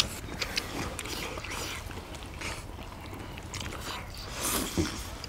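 Several people chewing mouthfuls of braised monkfish (agujjim), with scattered small clicks and a sharp click right at the start.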